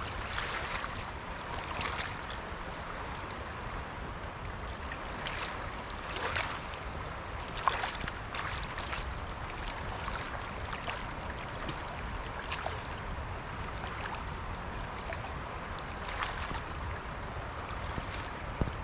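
Fast-flowing, high river running steadily, with scattered brief sharp ticks, the sharpest about eight seconds in.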